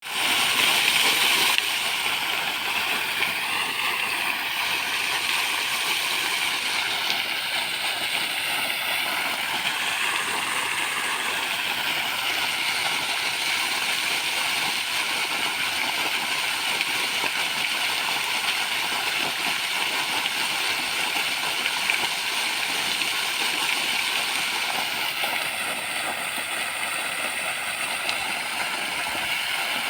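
Water fountain splashing, a steady rush of falling water, a little louder for the first second or so and then even.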